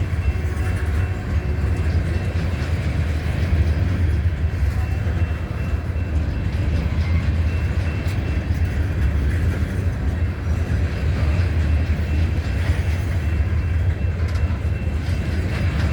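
Freight train's cars rolling past, a steady low rumble of steel wheels on the rails.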